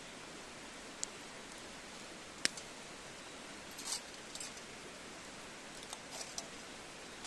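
Scattered small clicks and brief rustles over a steady hiss, the sharpest click about two and a half seconds in.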